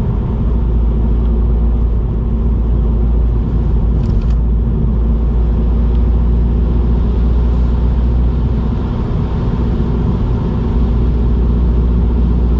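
Car running along a road, heard from inside the cabin: a steady, heavy low rumble of engine and tyres with a constant hum.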